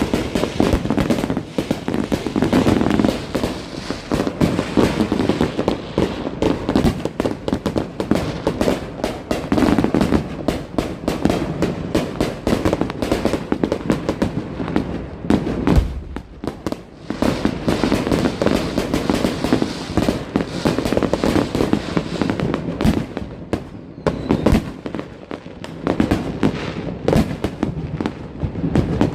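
Dense, continuous fireworks and firecrackers going off, a rapid unbroken run of cracks and bangs with a short lull about halfway through.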